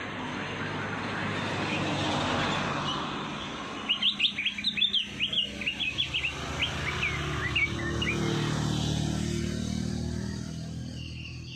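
Songbird chirping, a rapid run of about twenty sharp high notes lasting some four seconds, over a steady low rumble.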